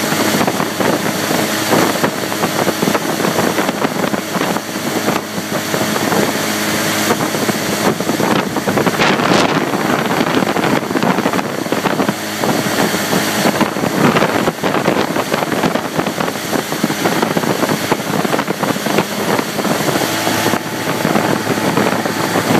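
Motorboat engine running steadily under way, with wind noise on the microphone.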